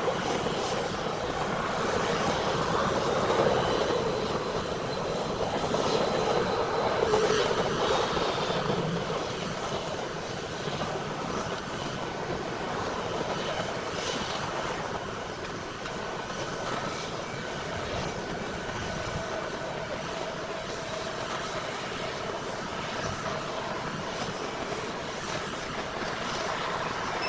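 Jet engine noise from a four-engined Airbus A340-600 (Rolls-Royce Trent 500s): a steady rush with a faint high whine, easing a little after about nine seconds.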